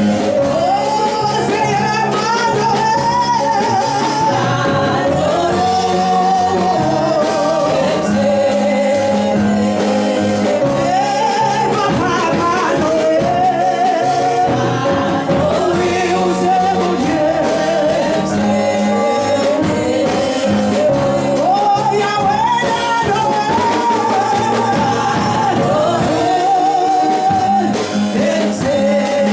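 Gospel singing with instrumental accompaniment: a sung melody over a steady beat.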